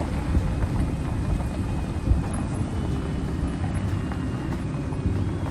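Steady road and engine noise inside a moving vehicle's cabin, with a few light knocks.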